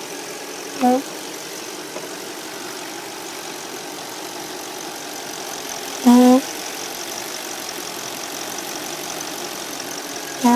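Audi A8 crankcase breather giving short pitched hoots over the idling engine, once about a second in, again around six seconds, and once more at the end. It is the funny noise of a faulty breather that needs replacing.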